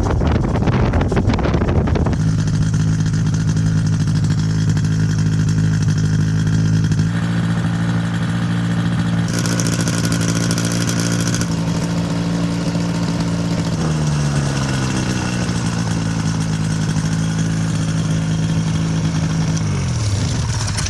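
Ultralight aircraft engine running. It is rough and noisy for the first couple of seconds, then settles into a steady even note. The note drops to a lower speed a little past halfway and sinks further near the end as the engine slows.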